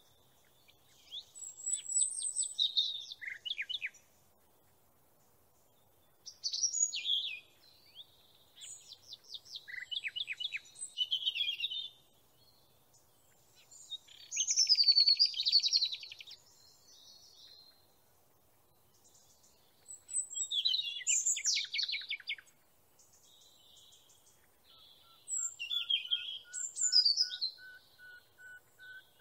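Songbird singing in separate phrases of quick chirps and rapid trills, one every few seconds, with short pauses between. Near the end a faint run of evenly spaced lower notes sounds under the song.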